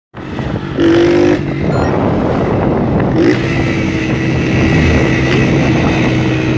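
A vehicle engine running steadily. About a second in there is a short, loud, flat tone, like a horn.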